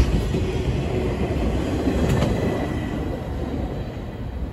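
Freight train flatcars rolling past on steel rails, a steady rumble with a wheel click over a rail joint about two seconds in, fading as the end of the train moves away.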